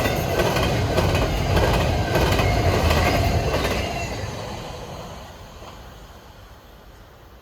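Train cars rolling past with wheels clicking regularly over the rails. The sound dies away from about four seconds in as the train moves off.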